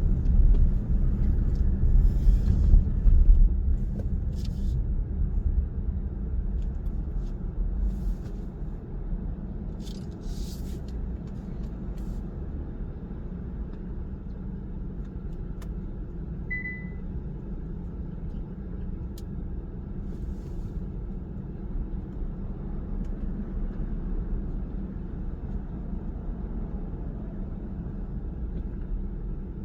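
Car cabin road noise while driving: a steady low rumble of tyres and engine, louder for the first few seconds, with a few faint clicks early on and a short high beep a little past the middle.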